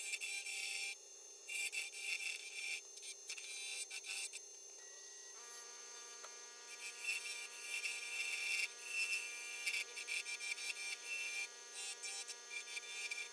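Woodturning tool rubbing and scraping against wood spinning on a lathe, in an uneven scratchy run of strokes.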